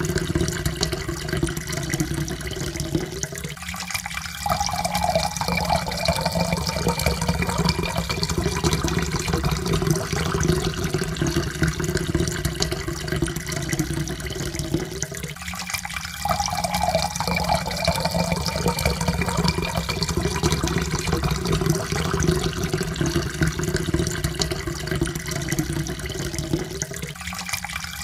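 Water pouring into a cup in a steady stream, its tone rising slowly as the cup fills. The pour breaks off briefly and starts again about every 12 seconds, twice in this stretch and once more near the end.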